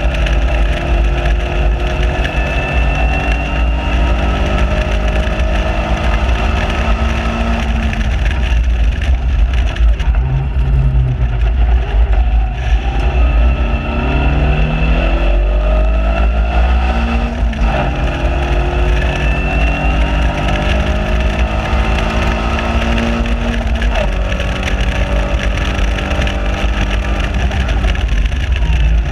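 Caterham Seven 1.6 Supersport's four-cylinder engine under hard acceleration on track, its pitch climbing in long pulls. The driver lifts off and the revs sag for a corner about ten seconds in, then upshifts break the climb about 17 and 24 seconds in. Wind rumbles on the microphone of the open car throughout.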